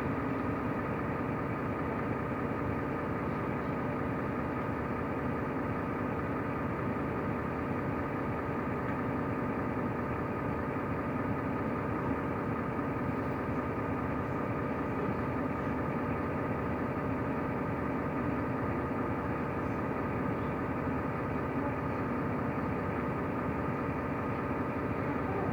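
Mercedes-Benz O345 Conecto LF city bus heard from inside, its engine running steadily with a constant hum that holds the same pitch throughout.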